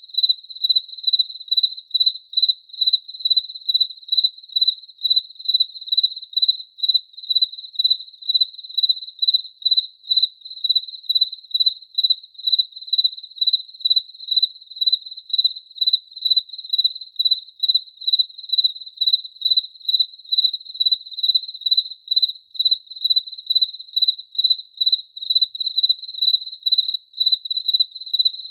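A cricket chirping in a steady, even rhythm, a high-pitched chirp repeating about two to three times a second without a break.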